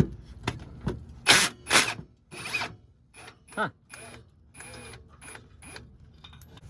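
Metal knocks and clanks as the old exhaust Y-pipe of a Nissan 370Z is worked loose. Several sharp knocks come in the first few seconds, then lighter, ringing metallic clicks.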